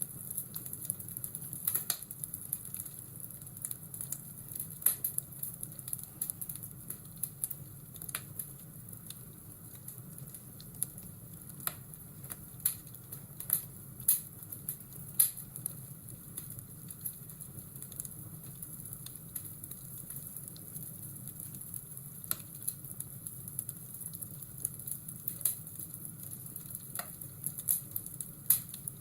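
Wood fire crackling, with irregular sharp pops and snaps over a steady low rush and hiss.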